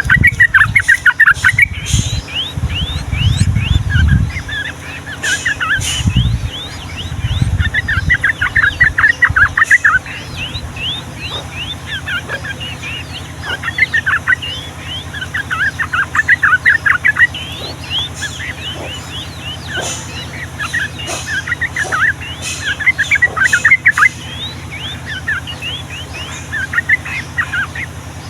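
Yellow-vented bulbuls singing: repeated bursts of fast chattering, rolling notes a second or two long, over a dense background of many quicker chirps from other birds.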